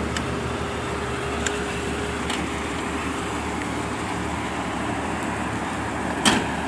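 Datsun 240Z's turbocharged 280ZX inline-six, on a blow-through carburetor setup, idling steadily, with one short sharp click near the end.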